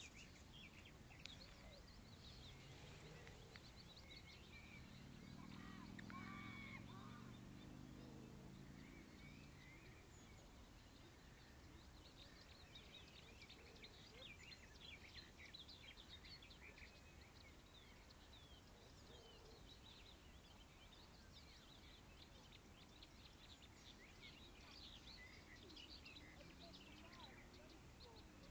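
Faint waterside ambience: small birds chirping over and over. A low, distant engine-like hum swells and fades a few seconds in.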